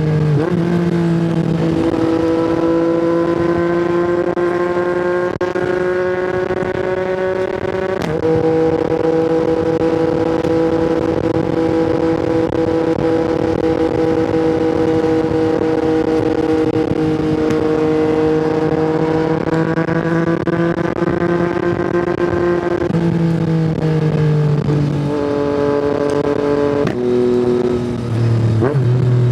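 Yamaha MT-09's inline three-cylinder engine through an Akrapovic exhaust, heard from the rider's seat while under way. The engine note climbs slowly at first, holds steady for a long stretch of cruising, then falls in several steps near the end as the bike slows.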